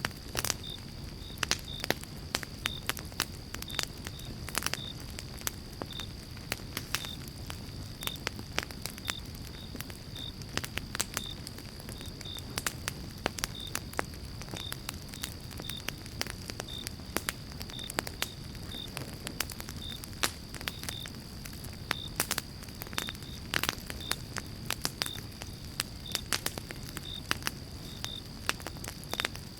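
Campfire of pine logs burning, with steady crackling and many irregular sharp pops over a low rumble of flame. A faint steady high tone and short high peeps repeat through it.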